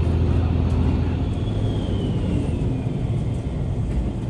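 Train running with a steady low rumble, the Setsugekka resort train's diesel railcar, and a faint high squeal that falls slowly in pitch about a second in.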